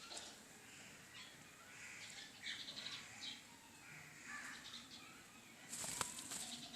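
Green parrot making soft scattered chirps and short calls, with a brief rustling burst near the end.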